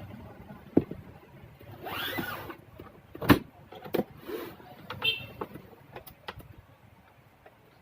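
Plastic monitor case being pried apart by hand: sharp clicks from snap clips, with scraping of plastic on plastic and a brief high squeak.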